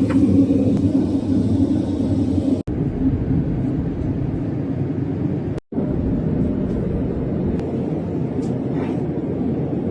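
Steady low rumble of a Boeing 787-9 airliner cabin, cutting out abruptly twice for a split second.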